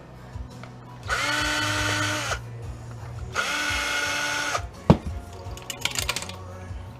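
Electric drill/driver motor running in two short bursts of about a second each, each whining up to speed, holding steady and winding down, followed by a sharp click.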